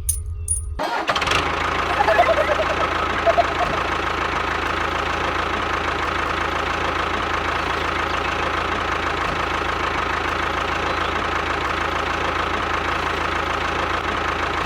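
An engine starts suddenly about a second in and then runs steadily.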